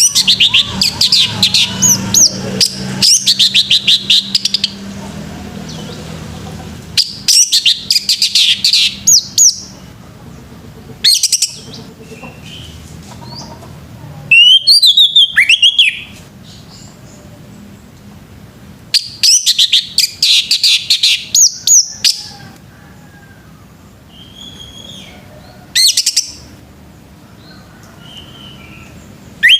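Male orange-headed thrush singing: loud bouts of rapid, varied whistles and trills, each lasting from under a second to about four seconds, about seven bouts separated by pauses of a few seconds.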